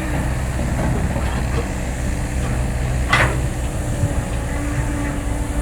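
Heavy diesel excavator running under load while digging hard soil, with one sharp knock about three seconds in.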